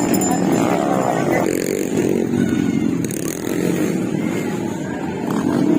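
Motocross dirt bike engines running and revving, the pitch rising and falling in the first second or so.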